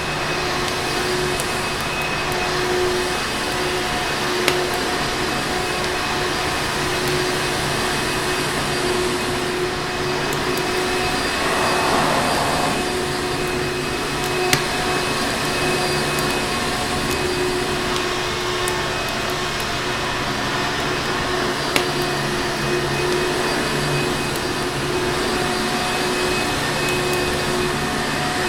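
Vacuum cleaner running steadily, a constant motor whine over an even rushing noise. A crackling fire is mixed in and gives three sharp pops.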